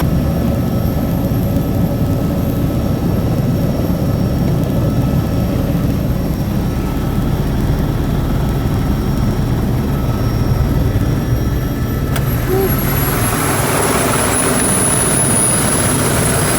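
Helicopter running close by: a loud, steady, low pulsing rumble of the rotor with a thin high whine above it, which drops slightly in pitch after about twelve seconds.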